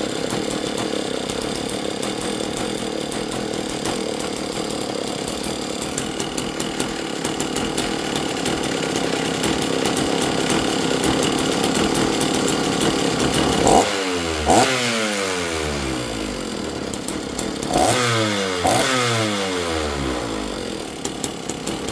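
Old two-stroke chainsaw running steadily at high speed. Twice in the second half its throttle is blipped sharply, and each time the engine note sweeps down afterward before settling again.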